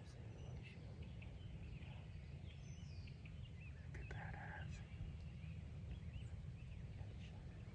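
Small birds chirping off and on in the woods over a steady low rumble of wind, with one louder short call about four seconds in.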